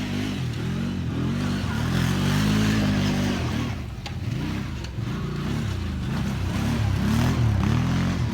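Motor vehicle engine running, its pitch rising and falling again and again.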